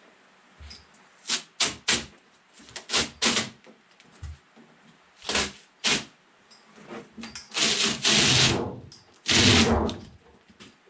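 Metal scraper prying a refrigerator's sheet-metal skin off its foam insulation: a string of short scrapes and crackles, then two longer, louder scrapes near the end as the sheet is pulled free.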